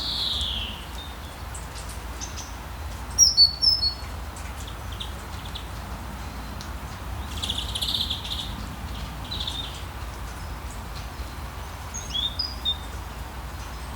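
Wild birds calling now and then: a falling whistle at the start, a quick run of sharp chirps about three seconds in, a longer harsher call a little past halfway, and a few more chirps near the end. Under them runs a steady low wash of sea waves.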